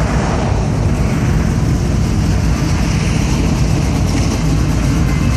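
Classic cars driving past in a steady stream: a continuous, deep mix of engine and road noise with no single event standing out.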